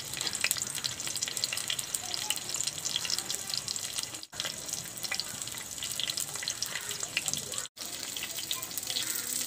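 Whole parwal (pointed gourds) frying in mustard oil in a kadhai: a steady sizzle thick with small crackles, broken by two very brief gaps.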